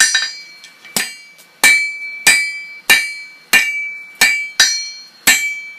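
Hand hammer striking hot tool steel on an anvil, about nine blows at an uneven pace, each followed by a short metallic ring. The bar is being forged thinner on one side and drawn out.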